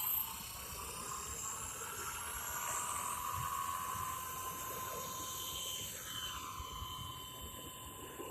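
Blade 230S V2 electric RC helicopter in flight: the brushless motors and spinning rotors give a steady high whine whose pitch drifts, sliding down about six seconds in as it flies past.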